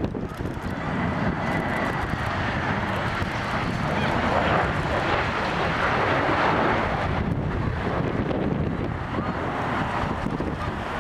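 Boeing 737-800 jet engines, CFM56 turbofans, passing close by: a broad rumbling roar with a faint whistle, swelling to its loudest around the middle and easing off toward the end.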